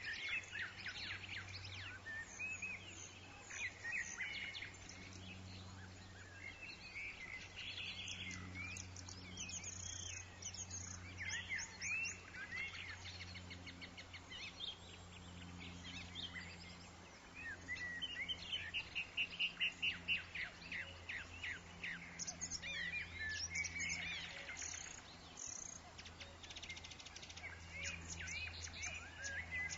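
Several woodland songbirds chirping and singing in overlapping short calls and trills, over a steady low rumble. A rapid repeated trill about two-thirds of the way through is the loudest part.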